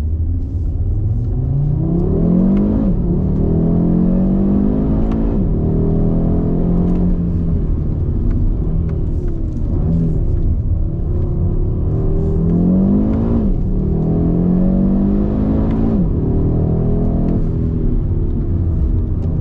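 Audi RS 3's turbocharged 2.5-litre five-cylinder engine heard from inside the cabin under hard acceleration. Its pitch climbs with the revs and drops sharply at each upshift, several times over, over a constant low road rumble.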